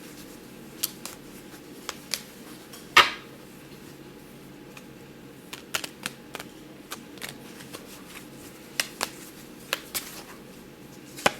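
Tarot cards being handled and laid down: scattered light card snaps and taps at irregular intervals, the loudest about three seconds in.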